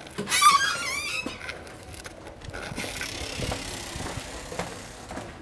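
A brief wavering high squeal of about a second, then a few seconds of scraping hiss with faint knocks: old metal fittings in a dilapidated railway coach being moved.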